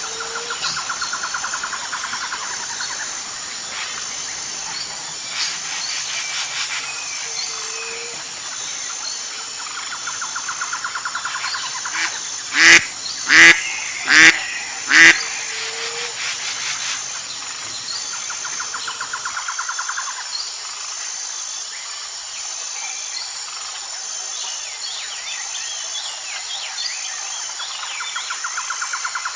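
Outdoor nature ambience: a steady high insect chorus and a rapid trill that comes and goes every several seconds. Near the middle a bird gives four loud, sharp calls in quick succession.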